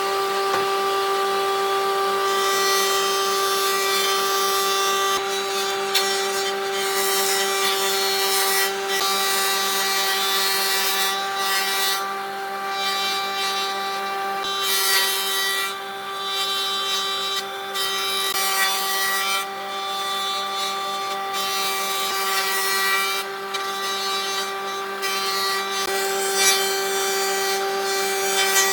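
An electric power tool runs steadily on wood. Its motor gives a constant whine, and under it the rough noise of the cutting or sanding rises and falls as the tool works the wood.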